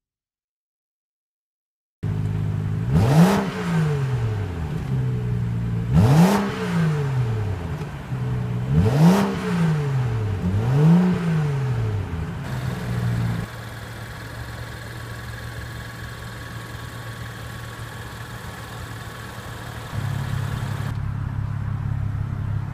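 BMW 435i's 3.0-litre turbocharged inline-six idling, blipped four times in quick revs about three seconds apart, each rising and falling back to idle. It then settles into a steady idle, a little louder again near the end.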